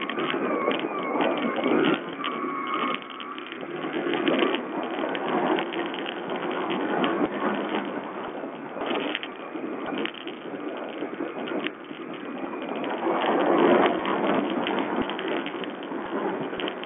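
A Sherco 125 4T enduro motorcycle's small four-stroke engine running under way, revving up and easing off in surges, with knocks from the rough track. It is heard through a low-quality, dull-sounding camera microphone.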